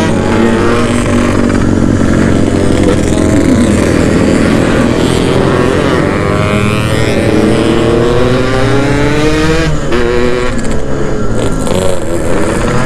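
Yamaha RX-King's 135 cc single-cylinder two-stroke engine under way, its revs rising and falling several times, with long rising sweeps partway through as it accelerates. The owner says the engine is already low on compression.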